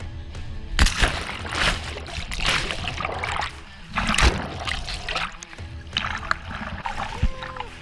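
Water splashing in irregular bursts as a person in the water hauls himself back onto a kayak, with background music underneath.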